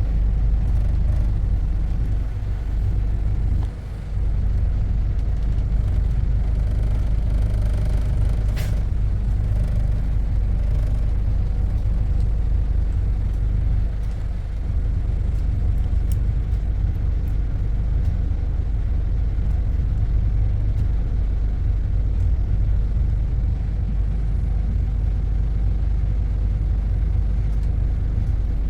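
Steady low rumble of a city bus heard from inside as it moves through heavy traffic, with a brief high-pitched hiss about eight and a half seconds in.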